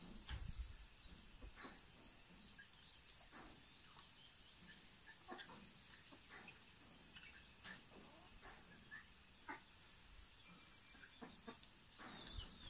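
Near silence, with faint bird chirps and trills in the background and a few light clicks of small metal pump parts being handled.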